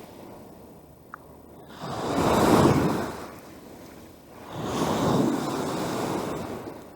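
Wind-driven waves from a rough lake washing onto the shore twice, each swell building and fading over about two seconds, with wind.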